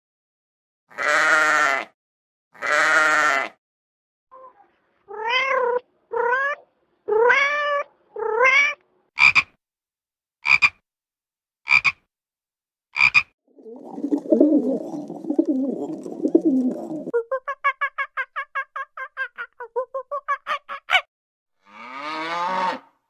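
A series of different animal calls one after another, with short silences between: two long calls, then four calls rising in pitch, a few short sharp calls, a low rough stretch, and a fast run of pulsed calls near the end.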